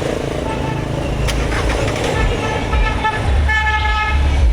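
Street traffic: a heavy vehicle's engine rumbling close by, louder toward the end, and a vehicle horn sounding in a few short toots.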